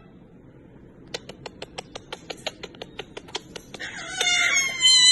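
A parrot clicking rapidly, about six clicks a second for nearly three seconds, then giving a rougher call near the end.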